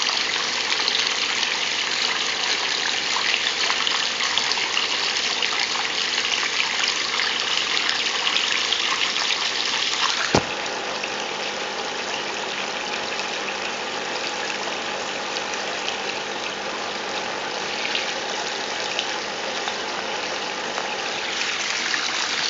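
Water running steadily from a tap into a bathtub, an even splashing hiss that spins a small ball in the stream. There is a sharp click about halfway through, after which the running water is slightly quieter.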